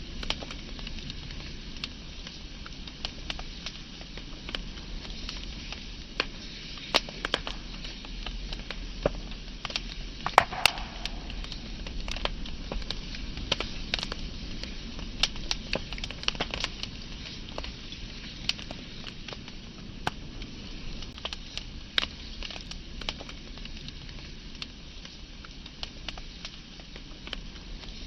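Wood fire crackling, with irregular sharp pops from the burning wood over the low steady noise of the flames. One louder pop comes about ten seconds in.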